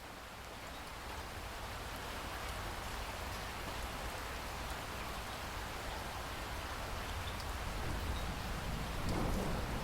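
Steady rain, a dense even hiss that fades in and grows louder over the first couple of seconds. Near the end a low rumble of distant thunder begins to build.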